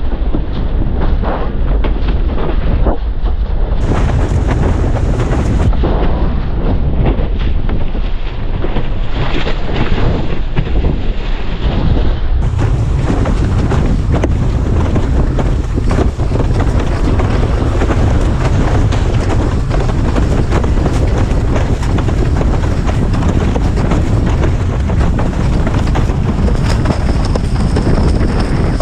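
Heavy wind buffeting a head-mounted action camera's microphone while windsurfing at speed, a steady loud rush with water noise from the board underneath.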